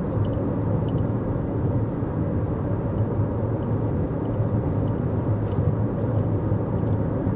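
Steady road and tyre noise with a low drone from a 2024 Toyota Corolla Cross cruising on the highway.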